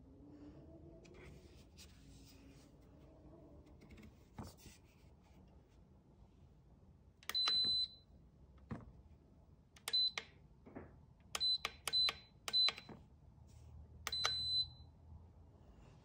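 High-pitched electronic appliance beeps. A long beep comes about seven seconds in, then about five short beeps in quick succession, and a long beep near the end, with a few faint clicks between them.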